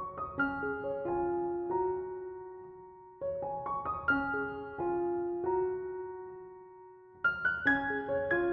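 Gentle solo piano music: short phrases of struck notes, each phrase fading away before the next begins about every four seconds.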